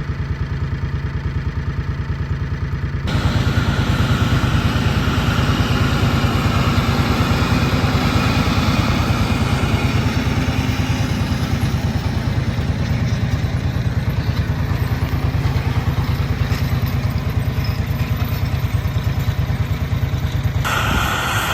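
Fendt tractor's diesel engine running steadily under way, with the sound changing abruptly about three seconds in and again near the end.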